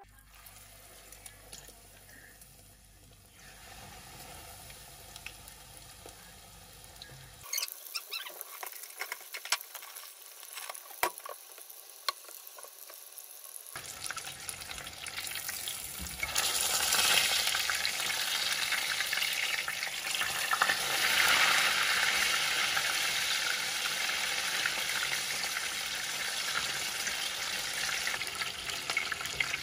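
Quiet kitchen handling with a few sharp clicks, then, from about halfway through, breaded chicken katsu cutlets shallow-frying in hot oil in a pan, a dense, steady sizzle and crackle that grows louder a couple of seconds after it begins.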